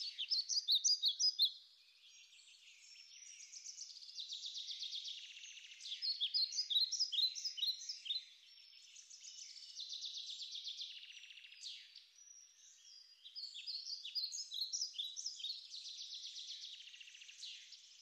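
Songbirds singing: fast trills alternate with quick runs of short, high chirps, in phrases a few seconds long. The song cuts off suddenly at the end.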